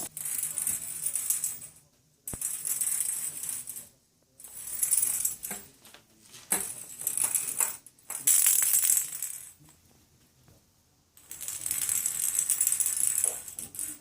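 Repeated bursts of high, jingling rattle, about six in all, each lasting one to two seconds with short pauses between.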